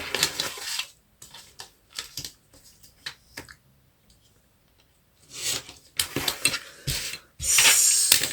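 Scissors cutting card, with paper rustling and handling clicks, in short bursts with a pause in the middle and a longer, louder rustle near the end.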